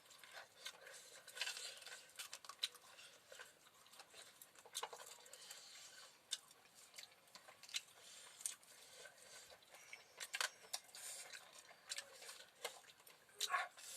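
Close-up eating sounds: a person chewing and biting food, with irregular wet clicks and crunches.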